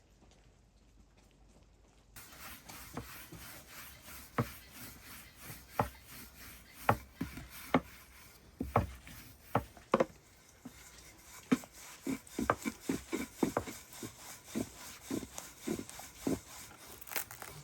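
A long series of sharp, irregular knocks with scraping between them, beginning about two seconds in. The loudest strikes come around the middle, and the knocks come faster near the end.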